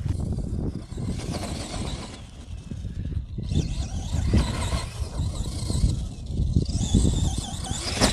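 Arrma Gorgon electric RC monster trucks running, their motors whining up and down in pitch as they accelerate and slow, with wind buffeting the microphone.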